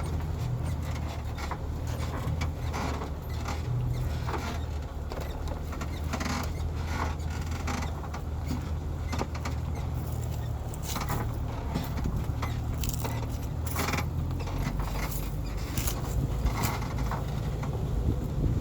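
Heavy truck engine running steadily at low revs, with frequent creaks and knocks from the truck's body and load. The engine note drops lower about fourteen seconds in.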